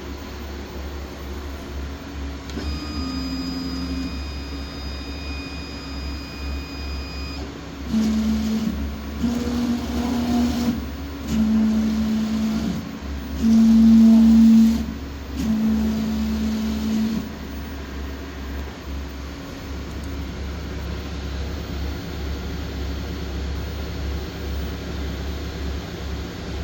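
A machine's Y-axis drive running with a steady low hum. It holds a tone with a high overtone for a few seconds, then makes a run of five short whines at differing pitches, each about a second long, the fourth the loudest. The uploader calls it an abnormal vibration of the Y axis.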